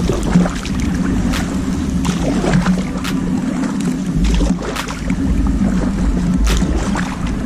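Kayak paddle strokes in slushy water, one splash about every one and a half to two seconds, with wind rumbling on the microphone.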